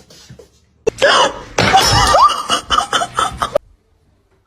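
People laughing in loud, broken bursts that stop abruptly about three and a half seconds in.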